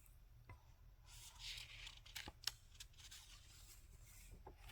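Faint paper rustle of a picture-book page being handled and turned, with a few small clicks.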